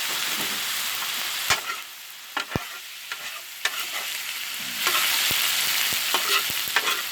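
Fried rice sizzling on a Blackstone flat-top griddle while a spatula stirs and turns it, with sharp clicks and scrapes of the spatula on the griddle. The sizzle drops away for a few seconds about a second and a half in, then comes back loud.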